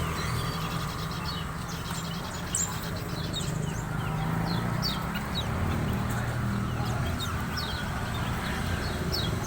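Small birds chirping: many short, quick, falling chirps, repeating throughout, over a steady low hum.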